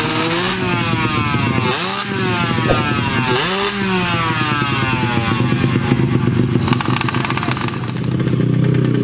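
Small-capacity underbone motorcycles racing flat out in a drag run. The engine pitch climbs steeply through each gear, drops sharply at upshifts about two and three and a half seconds in, and climbs again.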